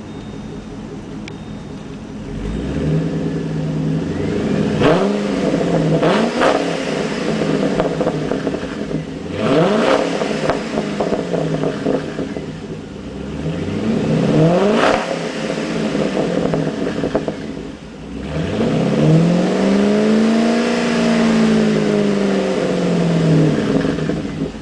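Pontiac G8's engine through a Solo Mach Shorty balanced catback exhaust, idling and then revved several times with quick blips of the throttle. Near the end it is held up for a few seconds in one longer rev before falling back to idle.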